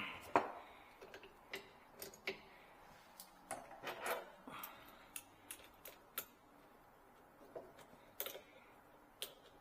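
Irregular light clicks and knocks of hand work on under-sink plumbing fittings and tools, with a few short rustling scrapes in between.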